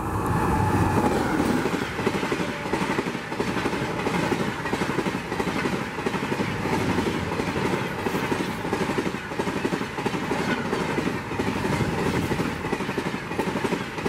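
Rajdhani Express passenger train passing close at speed: the electric locomotive rushes by at the start, the loudest moment, then a steady rumble of coaches with the wheels clattering rhythmically over the rail joints.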